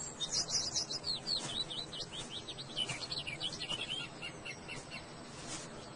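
Small songbirds chirping and singing, a dense run of short high notes that thins out after the first few seconds.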